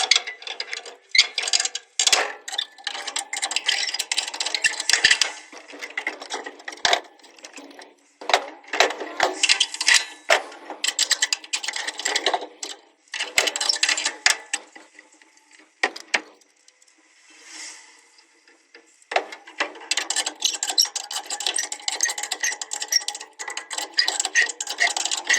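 Metal parts and tools clattering and clicking in dense bursts of several seconds, with short pauses between them, from work on a truck gearbox. A faint hum rises and fades about two-thirds of the way through.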